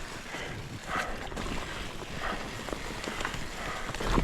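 Mountain bike riding over a dirt singletrack: tyre noise and small rattles and clicks from the bike, with the rider's breathing coming in short puffs, and a low thump near the end.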